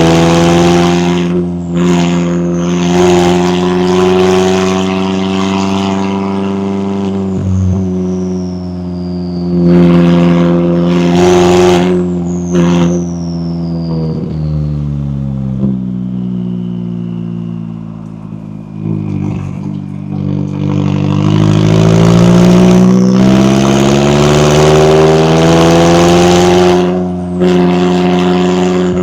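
McLaren 570S twin-turbo V8 accelerating hard through the gears, its pitch climbing with short breaks at each upshift. It slows with a long falling pitch in the middle, then pulls up to a high, steady pitch again until a shift near the end. A thin high whine slides down in pitch over the engine.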